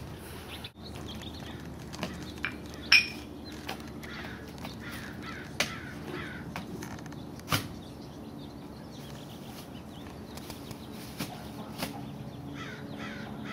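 Outdoor backyard ambience with birds calling, a few sharp knocks (the loudest about three seconds in) and a faint steady low hum.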